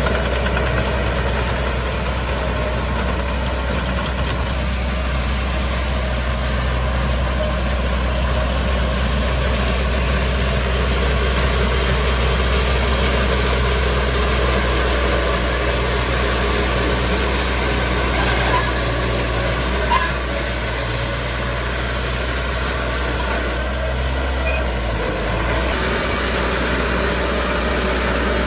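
Heavy earthmoving machinery running steadily, its engine giving a deep, continuous rumble. Two short knocks stand out about two-thirds of the way through.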